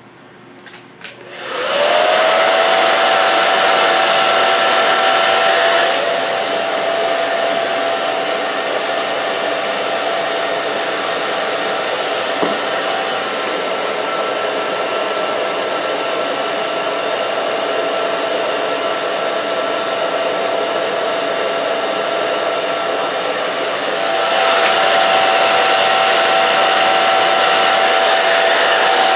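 Handheld blow dryer switched on with a click, its motor whine rising as it spins up, then running steadily with a rushing hiss of air. It gets somewhat quieter about six seconds in and louder again near the end.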